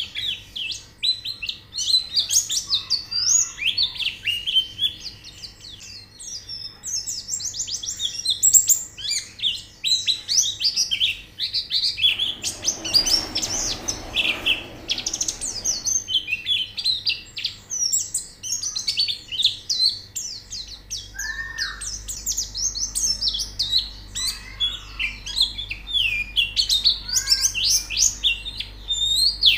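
White-eyes (pleci) singing: a dense stream of fast, high twittering chirps and short trills that keeps going with barely a pause. A brief noisy hiss lies under the song about twelve to sixteen seconds in.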